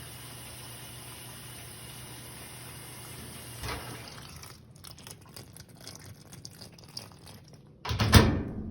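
Water running steadily from the sink faucet hose into a portable Kenmore washing machine as it fills, with a low hum under it; the flow stops about four and a half seconds in. Scattered clicks follow, and a loud thump comes near the end.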